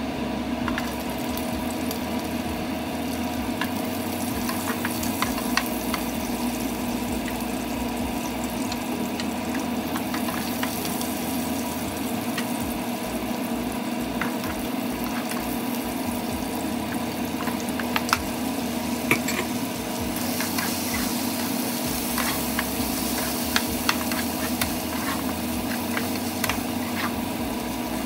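Oil sizzling in a nonstick frying pan as garlic, then lemongrass and chilies, fry. A bamboo spatula scrapes and clicks against the pan now and then, over a steady low hum. About twenty seconds in, the sizzle turns louder and hissier, and by the end chicken pieces are frying in the pan.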